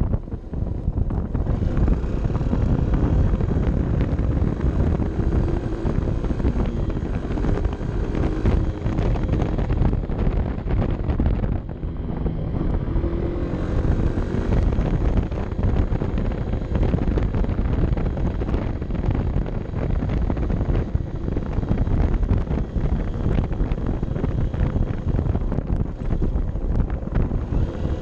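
Honda CB 125 F's single-cylinder four-stroke engine running under way on a mountain descent, its note rising and falling, with wind rushing over the action-camera microphone. The sound drops briefly about twelve seconds in.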